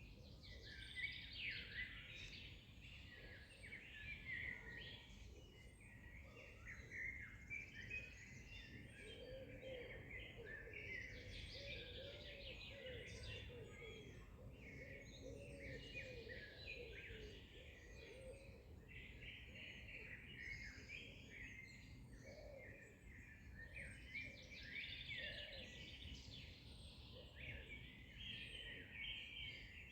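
Faint chorus of several songbirds chirping and singing over one another, a steady overlapping stream of short high calls. A lower, wavering song joins for several seconds around the middle.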